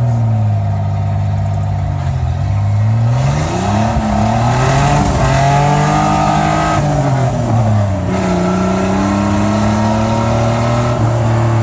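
Chevy S10 pickup's engine revving hard while the truck drifts on a welded rear differential. The revs climb from about two seconds in, hold high with a rushing noise for a few seconds, then drop back around eight seconds in and run steadier.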